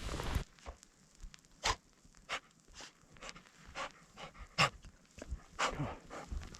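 A dog panting, short quick breaths roughly every half second, from the effort of wading through deep powder snow.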